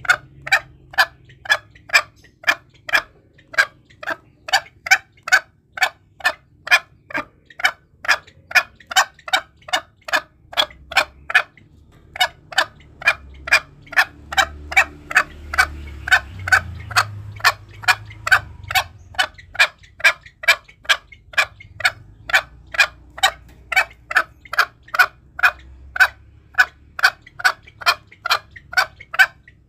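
Green junglefowl clucking: a long run of short, even clucks at about two a second, with one brief pause a little over a third of the way in.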